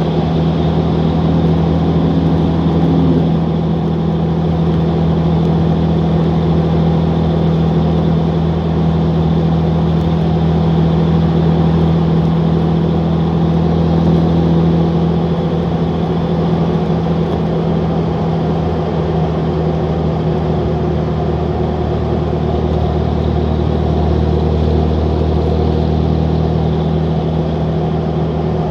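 Straight-piped Cummins 5.9-litre inline-six turbo diesel of a 2003 pickup, running steadily under way at a fairly constant engine speed with a deep, even drone.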